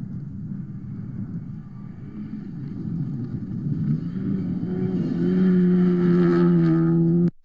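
Rally car approaching at speed on a gravel stage. Its engine grows steadily louder over the first few seconds, then holds a loud, steady high note. The sound cuts off suddenly near the end.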